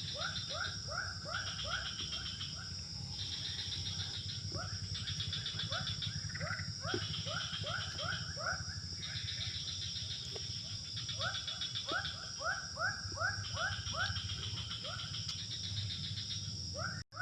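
Dusk animal chorus: runs of short rising calls, about four a second, each run lasting a few seconds, over a steady high insect buzz.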